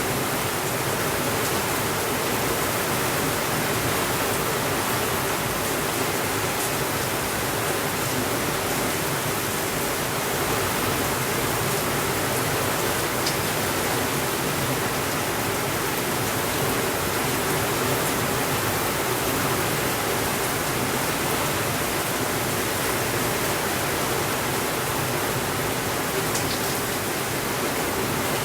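Steady rainfall, an even unbroken hiss with a few faint clicks here and there.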